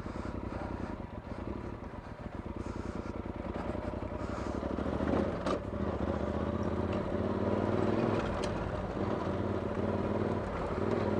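Adventure motorcycle engine running hard under acceleration, getting louder from about four seconds in, with a single sharp click a little past the middle.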